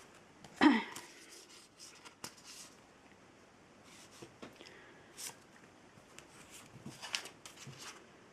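Paper journal pages and tucks being handled: intermittent soft rustling with small taps and clicks. A short, loud vocal sound with a falling pitch comes about half a second in.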